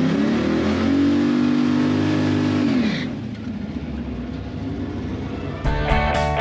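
Car engine revving: it climbs in pitch, holds high for a couple of seconds, then drops back to a lower steady run. Rock music with electric guitar comes in near the end.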